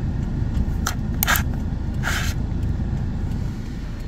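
A steady low rumble, with three short rustling sounds about one, one and a half and two seconds in.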